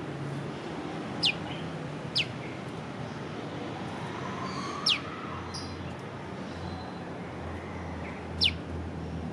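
Prenjak lumut calling single sharp 'piw' notes, each a quick downward-sliding whistle, four times at uneven intervals over a steady background hiss.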